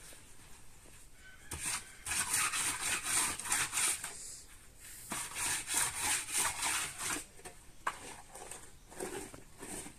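Rhythmic scraping or rubbing strokes, about three a second, in two runs of a few seconds each with a short pause between, then weaker strokes near the end.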